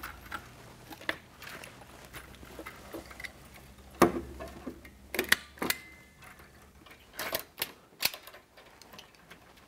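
Hand hog ringer closing metal hog rings to fasten bird netting to a wire, giving sharp, irregular clicks a second or more apart. The loudest click comes about four seconds in, and a quick cluster follows a few seconds later.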